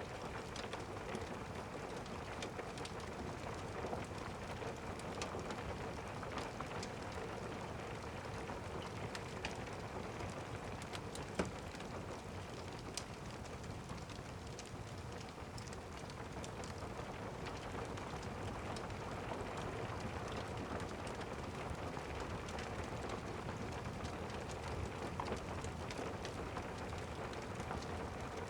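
Steady rain pattering, with many small sharp clicks scattered through it and one louder click about eleven seconds in.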